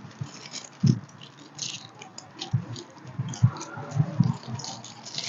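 Aluminium foil crinkling and rustling as it is wrapped around a breadfruit, with irregular scratchy crackles and dull knocks of handling.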